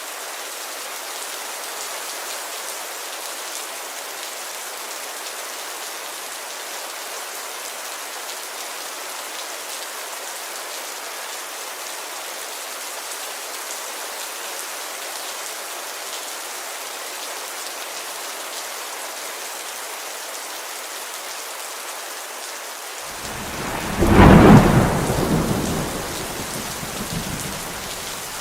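Steady rain pattering on a window, with a thunderclap rolling in near the end: a deep rumble that swells quickly, peaks, then dies away over a few seconds.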